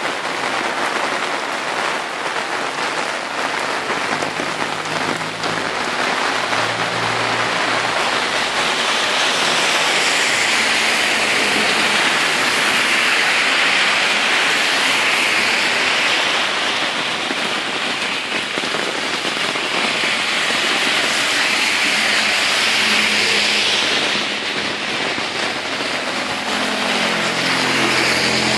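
Heavy typhoon rain pouring onto a paved road, a dense steady hiss that swells louder twice, around the middle and again about two-thirds of the way through.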